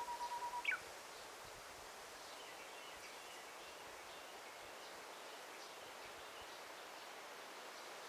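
Forest bird calling: a quick trill of about seven notes on one pitch, ending in a sharp downward-slurred note, over a steady rustling hiss of forest ambience. Faint, higher chirps follow a couple of seconds later.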